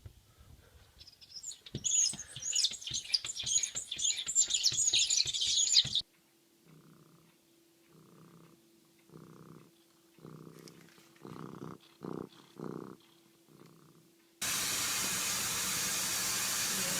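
Crackling, scratchy noise for the first six seconds, then a domestic cat purring in soft pulses, about one every 0.6 s. A steady hiss starts suddenly near the end.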